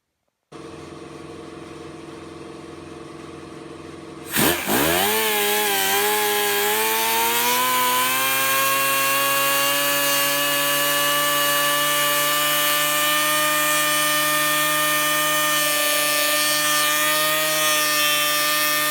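A power tool motor starts about four seconds in, its whine sweeping up in pitch as it spins up, then running at a steady high whine; a quieter steady hum comes before it.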